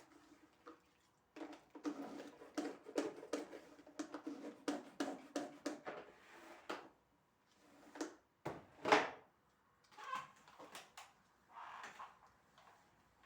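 Dishes and cutlery clattering and clinking as they are handled in a kitchen: a quick run of knocks for about five seconds, then scattered ones, with one louder clatter about nine seconds in.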